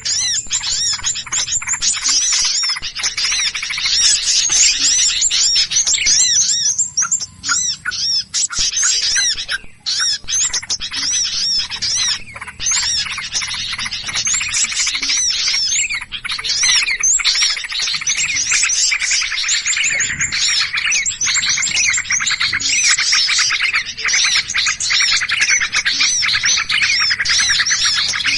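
Many small songbirds chirping and chattering rapidly, their calls overlapping densely without a break. This is a bird-trapper's lure recording of noisy, agitated small birds, played to draw in birds of all kinds.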